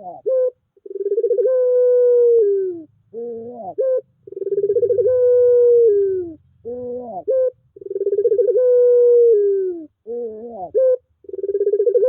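Puter pelung dove cooing: a few short rising notes, then one long drawn-out coo that falls away at the end, repeated about every three and a half seconds, three times over.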